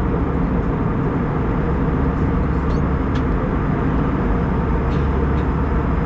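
Steady cabin noise of an Airbus A320-214 in cruise: an even low rush of airflow and engine drone, with a few faint clicks.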